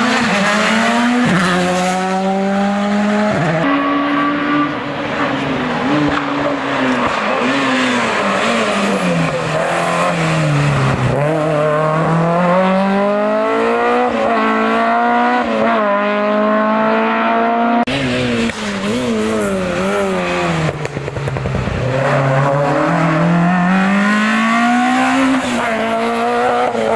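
Race car engine at full throttle on a hill-climb course. The pitch climbs through each gear and drops at every shift, and it falls away twice, a little under halfway and near three-quarters through, when the car slows for corners before accelerating hard again.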